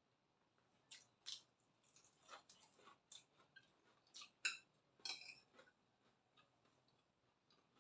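Faint eating sounds: a scattering of about a dozen short, sharp clicks and clinks over a few seconds in the middle, the loudest about four and a half seconds in.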